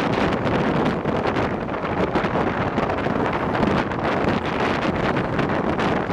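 Passenger train running, heard from on board: a steady rumble of the carriage on the track, with wind buffeting the microphone.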